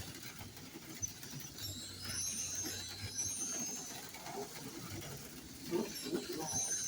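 HO-scale slot cars racing on the track: their small electric motors give a high whine that rises and fades twice as the cars pass, over a steady low hum.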